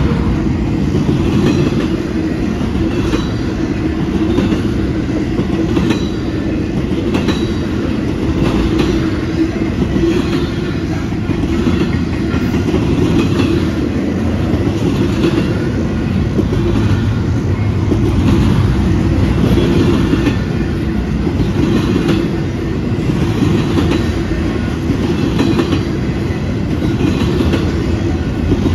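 Double-stack intermodal freight cars rolling past close by: a steady, loud rumble of steel wheels on rail, with repeated clickety-clack about once a second as the wheels cross rail joints.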